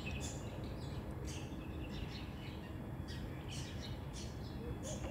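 Faint, scattered short bird chirps over a steady low outdoor rumble.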